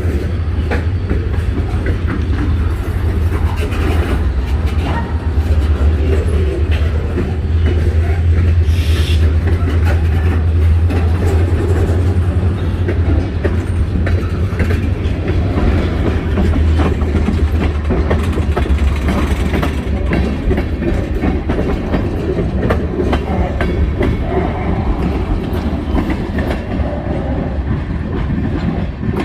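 Freight train rolling past: a steady, loud rumble of railcars with rapid clicking of the wheels over the rail joints.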